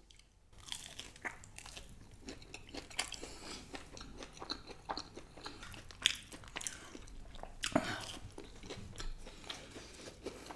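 Biting and chewing a deep-fried corn chilli cheese ball close to the microphone: an irregular run of crunches and mouth sounds, with the sharpest crunches about six and eight seconds in.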